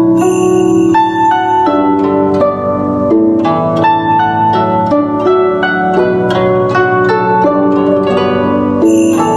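Guzheng playing a quick melody of plucked notes over sustained lower chords, in a guzheng and piano duet.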